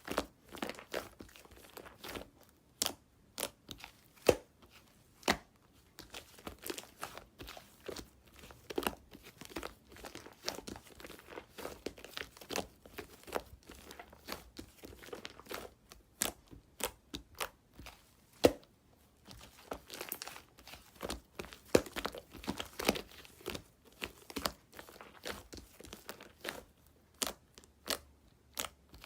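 Apricot bread being torn and eaten: irregular crackly tearing, crinkling and crunching sounds, with sharper snaps here and there.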